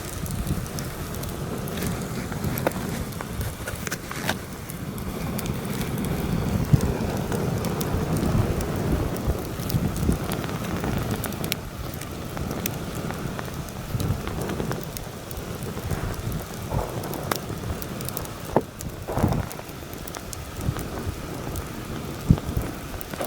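Campfire crackling and popping, with heavy wind buffeting the microphone in a low rumble that swells into a stronger gust partway through.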